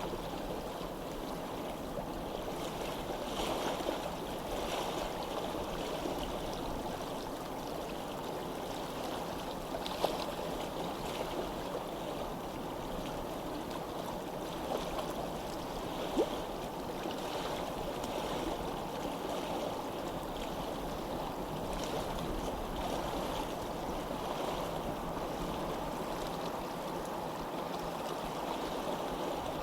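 Stream water running steadily, with a few brief clicks or splashes in the flow.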